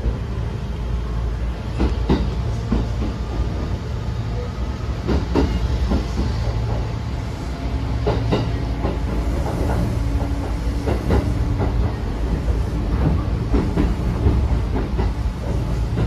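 Running sound inside a Kintetsu 9000 series electric train car as it pulls out of a station and gathers speed: a steady low rumble with sharp clicks of the wheels over rail joints, and a steady motor hum through the middle.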